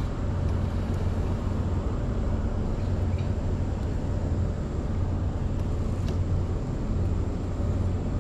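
Small boat's outboard motor running at a steady speed, a constant low drone.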